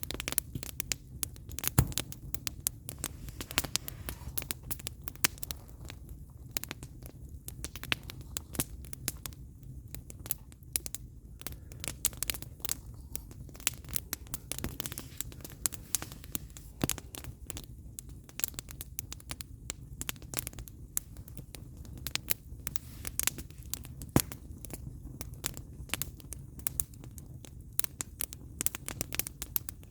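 Firewood burning in an open fire, crackling with irregular sharp pops and snaps over a low steady rumble.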